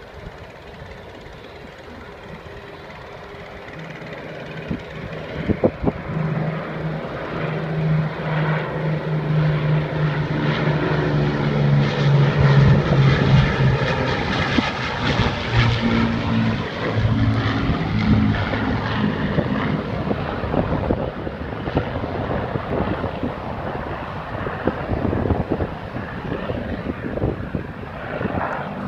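Avro Lancaster bombers' Rolls-Royce Merlin piston engines flying past: a deep drone that swells to its loudest about halfway through, drops in pitch as they go by, then slowly fades.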